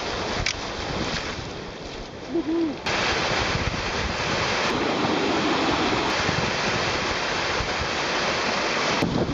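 Rushing, churning river water at a canoe chute with wind buffeting the microphone; the water noise drops back briefly, then surges up suddenly about three seconds in. A brief pitched sound comes just before the surge.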